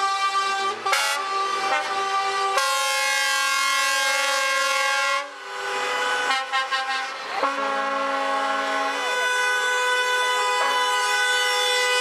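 Truck air horns sounding in long, held blasts, several horns overlapping in chords, with the chord changing about two and a half seconds in and again around the middle.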